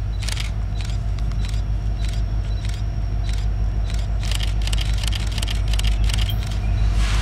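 Freight ore train rolling past: a steady low rumble with irregular clicks and clacks of wheels over the rails, a few each second, growing stronger toward the end.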